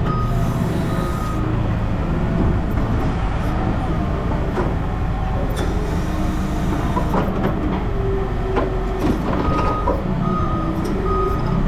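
A heavy vehicle's engine running steadily, with a reversing alarm beeping in a quick series near the start and again near the end. Scattered metal clanks come in between.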